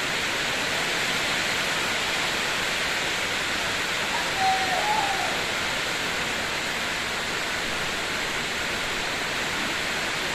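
Steady, even hiss of heavy tropical rain pouring down on floodwater. A short wavering call cuts through about four seconds in.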